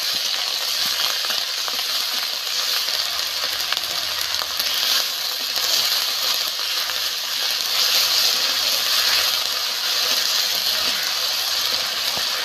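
Onion and tomato paste frying in hot oil in a metal kadai, sizzling steadily, with a flat metal spatula scraping and clicking against the pan as it is stirred.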